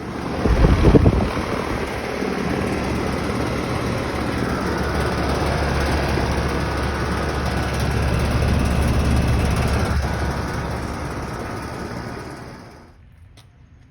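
Outdoor air-conditioner or heat-pump condensing unit running, its fan and compressor giving a steady noise with a low hum. There is a deep surge about half a second in, and the sound dies away near the end.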